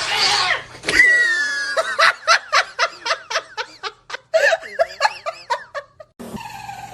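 A person laughing hard in quick repeated bursts, about four a second, starting about two seconds in. Before it comes a high, drawn-out cry.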